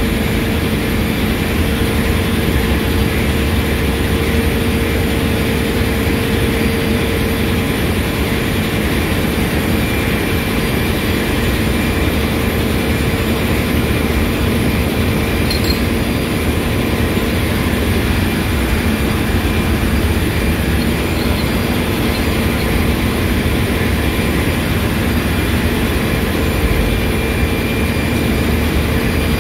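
Overhauled lube oil centrifugal purifier running with engine-room machinery, a loud, steady mechanical hum with a constant low tone.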